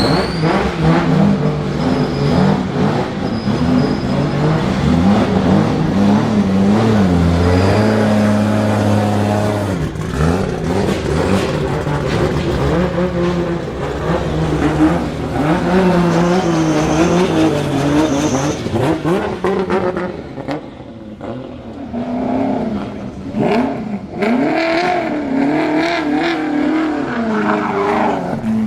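Drift car engines revving hard, their pitch rising and falling over and over. About twenty seconds in it drops quieter, with a few short revs near the end.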